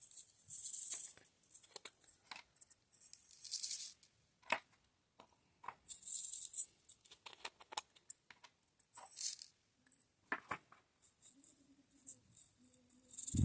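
Small plastic diamond-painting drills rattling and swishing in a tray in several short bursts, with scattered light clicks and taps between them.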